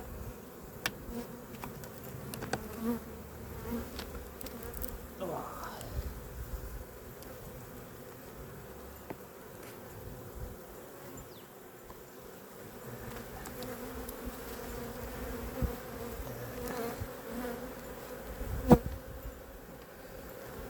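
Honeybees buzzing steadily around an opened hive, one bee's pitch sliding as it flies past the microphone about five seconds in. Scattered clicks and knocks of a hive tool prying at a stuck frame, with one sharp knock near the end.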